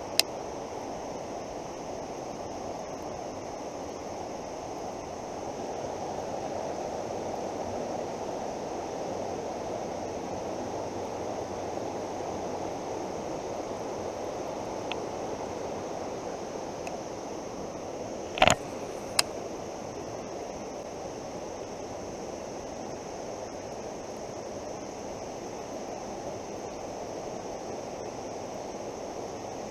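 Steady rush of fast-flowing, flood-swollen creek water. A few sharp clicks cut through it, two of them close together about two-thirds of the way in.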